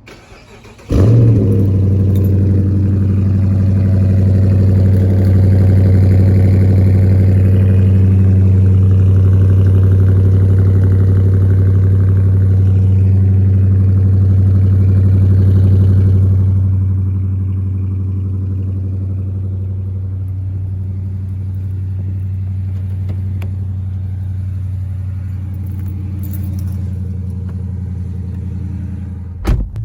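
Dodge Charger R/T's Hemi V8 starting about a second in with a loud flare, then running at a raised idle. About halfway through it settles to a lower, quieter steady idle.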